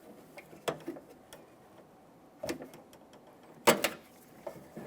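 A few sharp clicks and taps of a small pocket screwdriver prying at the plastic retaining clip on the door handle's lock rod, the loudest a quick double click nearly four seconds in as the clip pops apart.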